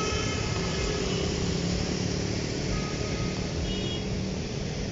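Car driving on rain-wet city streets, heard from inside the cabin: steady engine and tyre noise with a hiss from the wet road.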